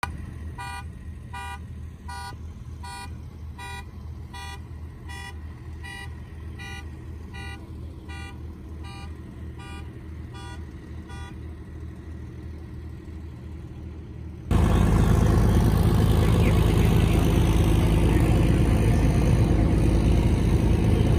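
A vehicle engine running steadily, with a repeating electronic beep about twice a second that stops after roughly eleven seconds. About two-thirds of the way through, a much louder engine noise starts abruptly and runs on.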